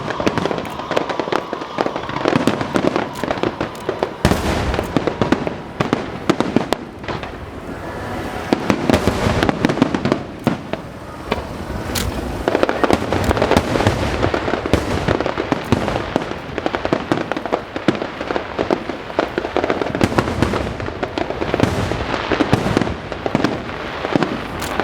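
Aerial fireworks going off in a dense, continuous barrage of bangs and crackling, with a few sharper cracks standing out.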